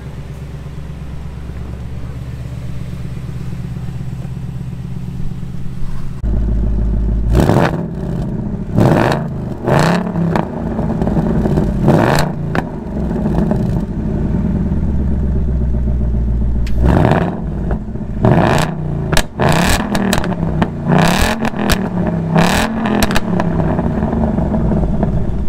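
2020 Ford Mustang Bullitt's 5.0-litre V8 idling with a steady low note. About six seconds in it becomes louder and is revved in about ten quick throttle blips, the exhaust note rising and falling with each one between stretches of idle.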